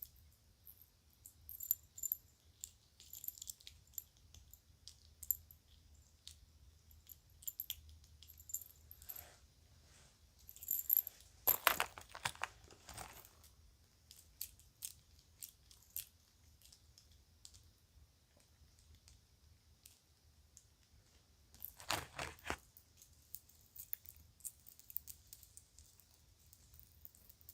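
Children's jewelry being handled, with small pieces lightly clinking and tinkling against each other. There are two louder, denser stretches of handling noise, about eleven seconds in and again about twenty-two seconds in.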